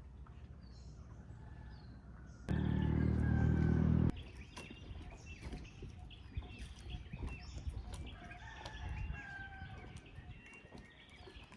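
A rooster crows once, loud and about a second and a half long, a little over two seconds in. Small birds chirp on and off around it.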